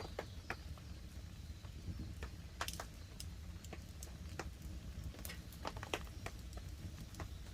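Wood campfire crackling, with irregular sharp snaps and pops over a low steady rumble. Light rain patters on the tarp overhead.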